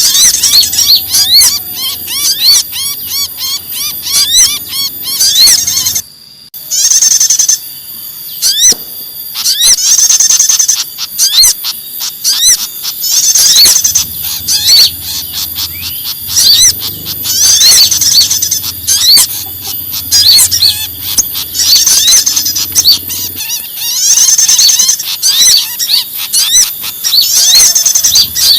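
Bird-lure recording of many small birds calling in agitation: a dense stream of rapid, overlapping high chirps and chatter, with a short break about six seconds in. The mix combines noisy, distressed ('ribut kejepit') calls of small birds such as pied fantails and prinias, of the kind played to attract wild birds.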